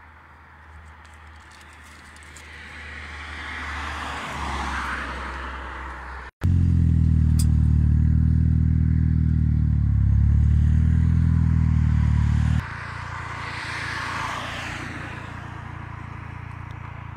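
Cars passing fast on a highway, each one swelling and then fading. Between the two pass-bys, a loud, steady low engine hum cuts in for about six seconds and then cuts off.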